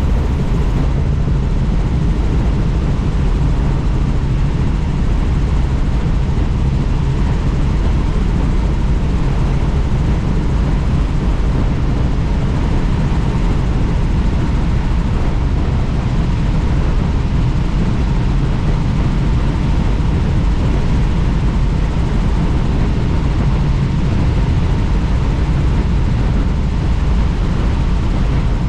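Helicopter in steady flight, heard from on board with the doors off: a loud, even rush of rotor and engine noise and wind with no change throughout.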